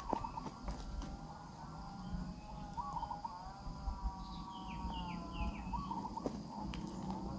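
Nestling birds calling in the nest: a steady, wavering chorus of begging calls, with a quick run of short falling chirps about halfway through.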